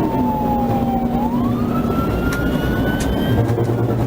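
Police siren wailing, its pitch sliding slowly down, rising again about a second in, then starting to fall near the end, over steady engine and road noise of the moving patrol car.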